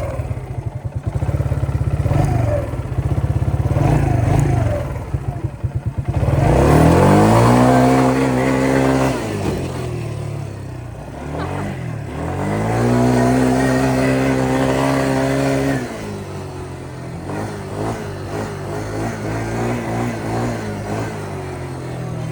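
Yamaha Grizzly 125 ATV's small single-cylinder engine running under way. It revs up twice, about six and twelve seconds in, holding the higher pitch for a few seconds each time, then settles back to a lower steady run.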